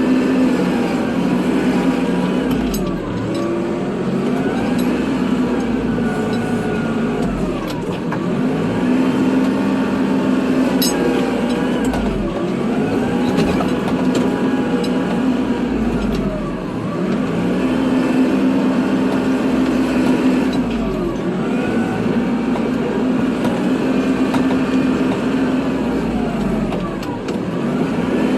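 Kubota tractor's diesel engine running under load while plowing snow, its engine speed sagging and recovering over and over, about every four to five seconds.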